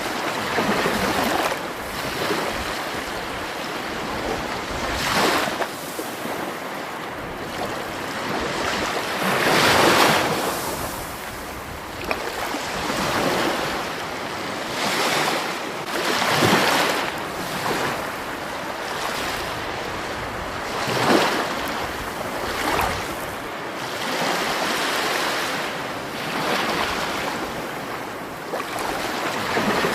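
Water rushing and washing without a break, swelling into louder surges every few seconds.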